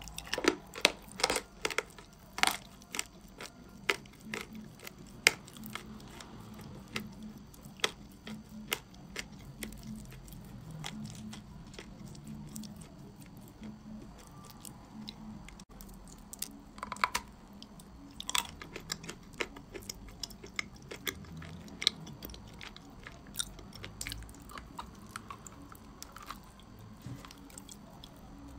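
Chewing and biting chalk coated in clay paste: sharp crunches come in quick succession during the first three seconds and again about seventeen to nineteen seconds in, with scattered single crunches between.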